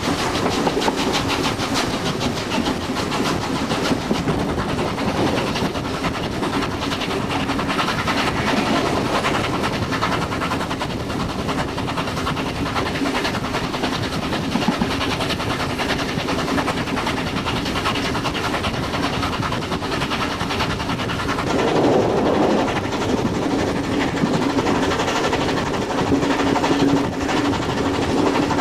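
Steam-hauled train heard from an open carriage window: steady running noise of the carriages' wheels on the rails and over points, with a brief louder surge about three quarters of the way through.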